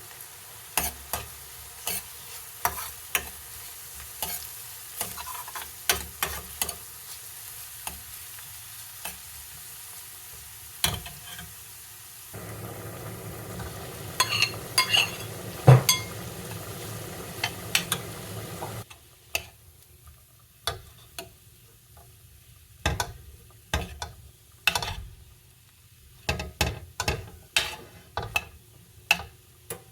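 Kitchen cooking sounds: a utensil stirring and tapping against a pan over a steady sizzle. The sizzle stops about two-thirds of the way through, leaving scattered clicks and taps.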